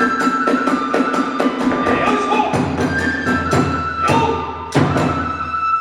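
Kagura hayashi music: fast, even drum and hand-cymbal strikes, about five a second, under a sustained bamboo flute melody. The percussion breaks off with a loud final strike about five seconds in, leaving the flute alone.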